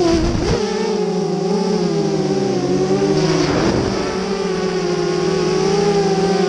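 FPV quadcopter's brushless motors whining, the pitch rising and falling with the throttle. The pitch drops sharply right at the start and again about half a second in.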